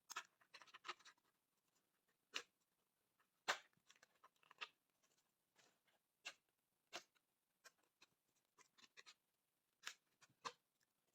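Faint, scattered clicks, taps and short rustles of a gift's packaging being handled and opened, with two sharper clicks a little over two and three seconds in.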